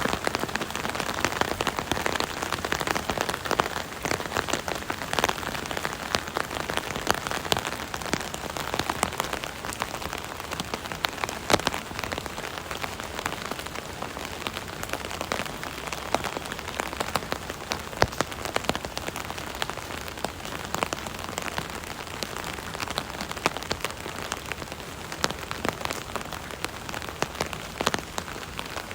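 Steady rain falling on an umbrella canopy: a dense patter of drops tapping the fabric, with a few louder drops standing out.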